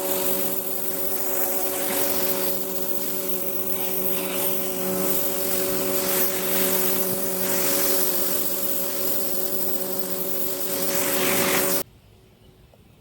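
Pressure washer running steadily: a motor-and-pump hum with the hiss of the high-pressure spray. It cuts off suddenly about twelve seconds in.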